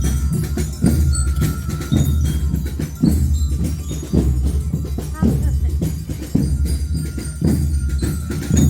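Marching band's bell lyres (liras) playing a melody over drums, with a strong beat about once a second.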